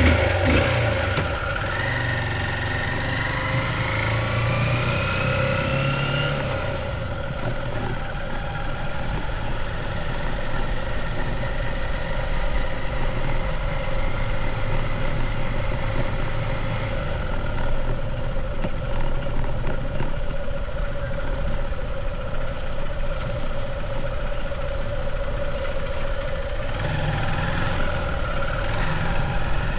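Motorbike engine running while riding, rising in pitch over the first several seconds as it speeds up, then holding steady.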